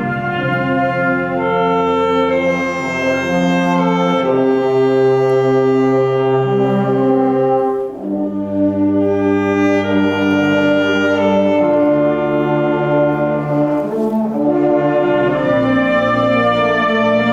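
A school wind band playing sustained, brass-led chords that move every second or two, with a short breath between phrases about eight seconds in.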